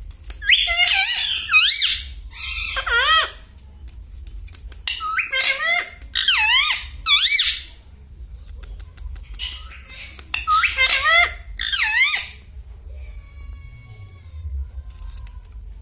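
Indian ringneck parakeet giving high, warbling calls in three bursts of a few seconds each, with pauses between.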